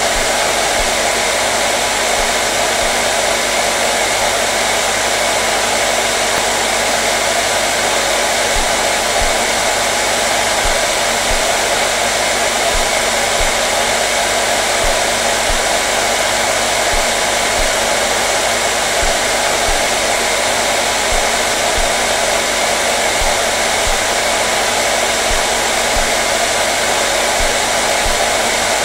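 Handheld hair dryer running continuously, a steady rushing of blown air over the hum of its motor, with no change in speed.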